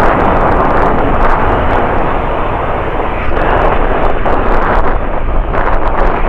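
Jet airliner engines at high power close by: a loud, steady roar with crackling through it.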